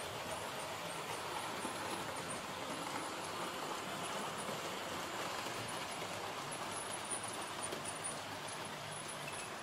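A 00 gauge model train, a Bachmann D11 Director class locomotive hauling coaches, running along the track with a steady rumble of motor and wheels on rail.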